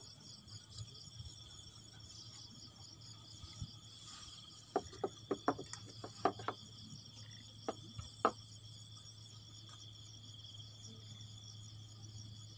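Insects chirring steadily in high, finely pulsing tones. Around the middle there is a quick run of about ten sharp clicks or taps.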